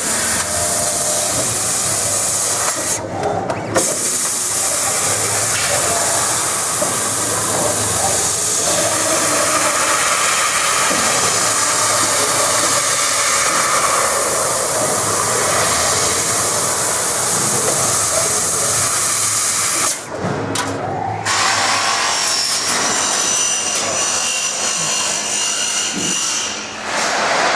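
CO2 laser cutting machine running a cut: a loud steady hiss that breaks off briefly about three seconds in and again about twenty seconds in.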